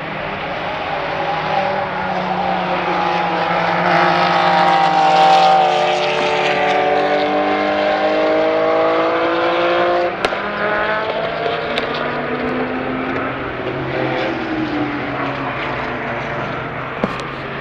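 Classic racing car engine running hard at high revs, its pitch climbing and then easing off. About ten seconds in it changes abruptly to a lower note and climbs again.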